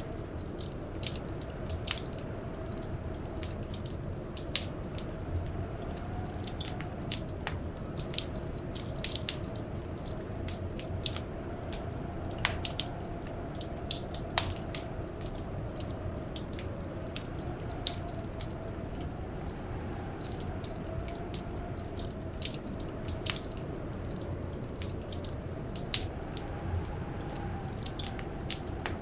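Wood fire crackling in a fireplace: irregular sharp pops and snaps over a steady low rumble. A faint blizzard wind tone slowly rises and falls underneath.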